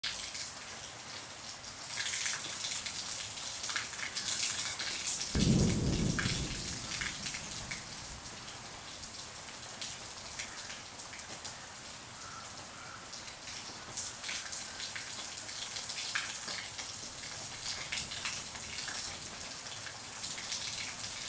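Rain falling on forest foliage, with many irregular drops hitting leaves over a steady hiss. A brief low rumble comes about five seconds in.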